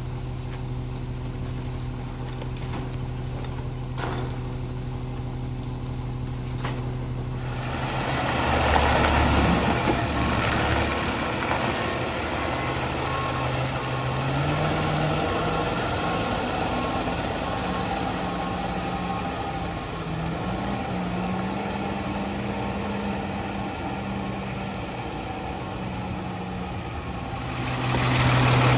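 Garbage truck's diesel engine idling steadily, then revving up about eight seconds in and running louder, its pitch climbing in steps. A faint repeated beeping sounds for a few seconds in the middle.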